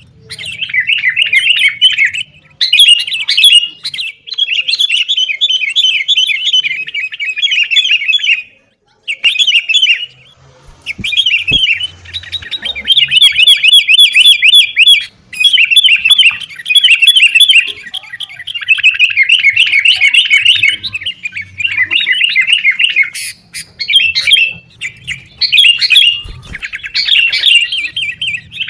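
Sooty-headed bulbuls (kutilang) chattering in loud, rapid, trilled phrases, almost without pause apart from a few brief breaks. This is the agitated fighting chatter of the bird.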